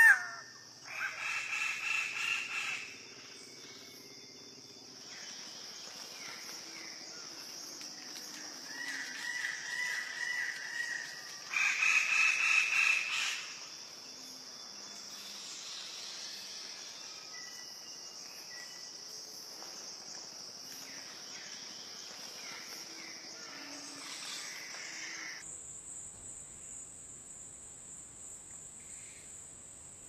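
Bird calls: a long, loud call about a second in, a run of short repeated calls, and another long, loud call, over a steady high hiss that jumps higher in pitch near the end.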